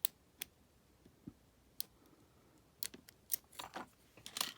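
Lock pick working the pins of an Abus 74/40 lockout padlock: a few sharp, spaced metallic clicks, then a quicker run of clicks and scrapes over the last second and a half.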